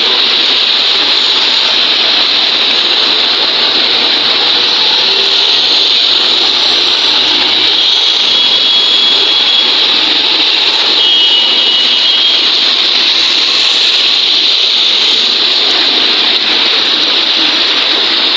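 Heavy rain falling: a loud, steady, even hiss.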